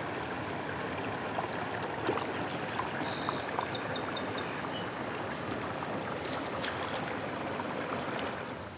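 Steady rush of flowing river water, with a few short high chirps about three seconds in.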